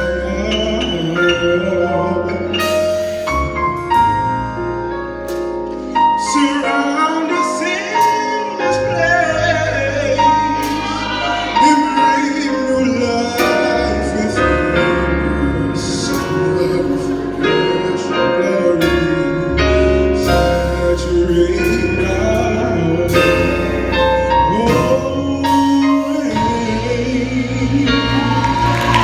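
Gospel choir singing with band accompaniment, sharp percussive hits and a low bass running under the voices.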